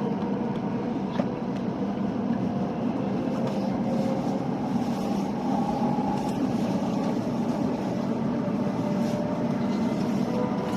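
Steady running noise inside the cabin of a Hokuriku Shinkansen E7/W7-series train, a low rumble with faint steady tones above it.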